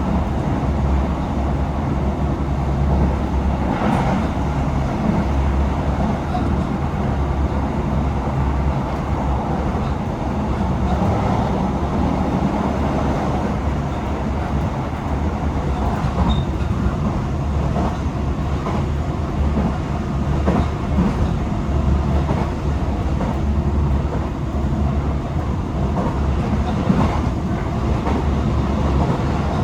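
Tokyo Metro 18000 series electric train running at speed, heard from inside the car: a steady rumble of wheels on rail with scattered short clicks as the wheels pass over rail joints.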